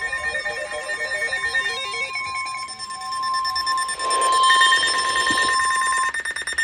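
Electronic emergency alert tones: a steady high tone over a quick stepping, repeating melody, then from about four seconds in a louder, buzzing alert signal that cuts off near the end.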